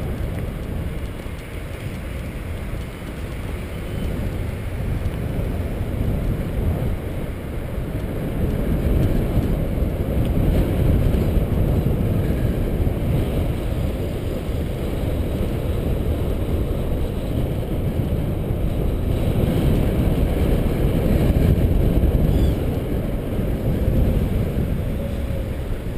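Wind rushing over the microphone while riding a bicycle: a steady low rumble that swells and eases.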